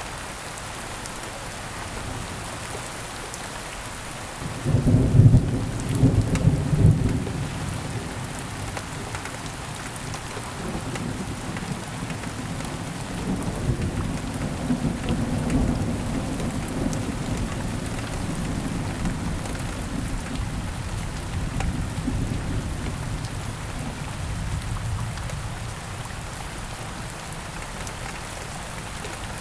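Heavy rain falling steadily, with a clap of thunder about four seconds in that cracks loudly and then rolls on as a long low rumble, dying away over some twenty seconds.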